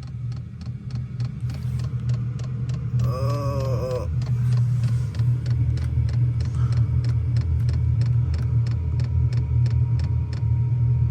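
Pickup truck engine running, heard from inside the cab, getting louder about four seconds in, with a steady ticking about two to three times a second. A short groan-like vocal sound comes about three seconds in.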